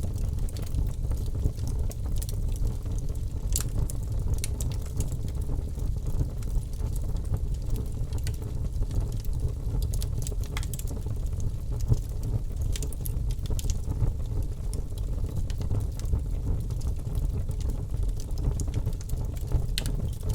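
Birch-log fire burning in a fireplace: a steady low rumble of flame with scattered sharp crackles and pops from the wood.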